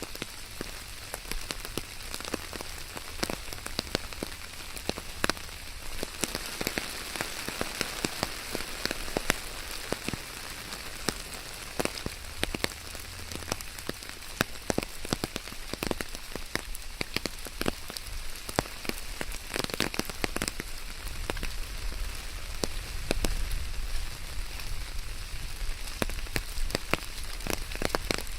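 Steady rain with many distinct drops pattering close by, over a low rumble that swells near the end.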